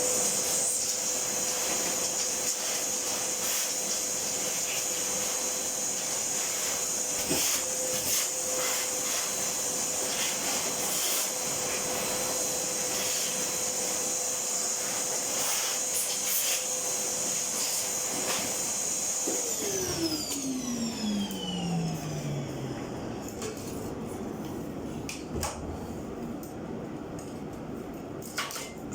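Electric motor running at speed with a steady high whine and a few light knocks, then switched off about 19 seconds in and winding down, its pitch falling for a few seconds.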